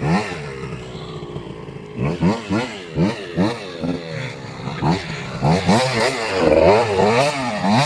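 Small two-stroke single-cylinder engine of a KTM 85 SX dirt bike revving up and down over and over in a series of throttle blips. It is busiest and loudest about five to seven seconds in.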